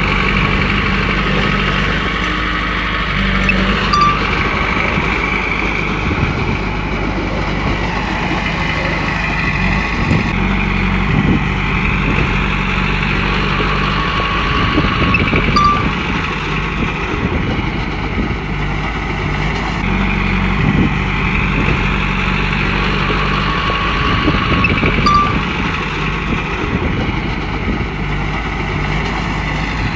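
Komatsu bulldozer's diesel engine running under work, its note and load rising and falling in repeated cycles about every five seconds, with a few brief high squeaks.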